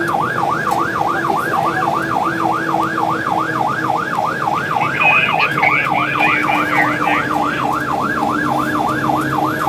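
Fire truck siren on the rapid yelp setting, rising and falling about three and a half times a second, over a steady low hum.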